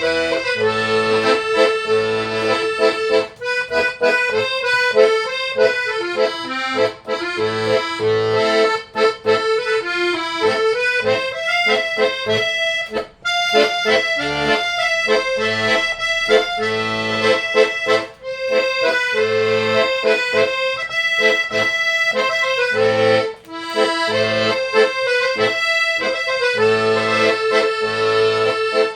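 Accordion playing a melody over held chords and repeating bass notes.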